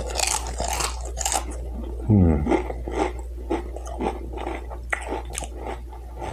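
Close-miked chewing and crunching of Doritos tortilla chips, with a short hummed vocal sound about two seconds in.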